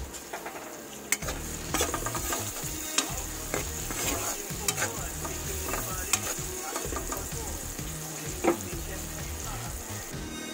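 Chopped garlic and red onion sizzling as they fry in oil in a pan, with a utensil scraping and knocking against the pan now and then as they are stirred.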